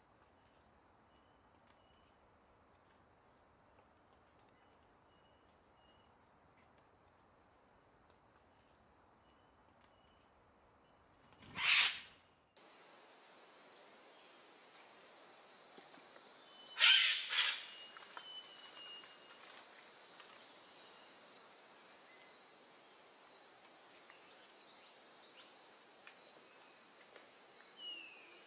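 Outdoor nature sound: a steady high-pitched insect drone with faint, brief bird chirps, broken by two loud short calls about twelve and seventeen seconds in. The background changes abruptly just after the first call.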